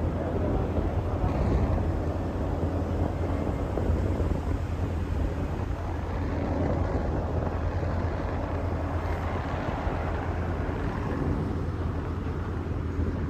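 Boat engine running steadily, a low drone under a wash of water and wind noise.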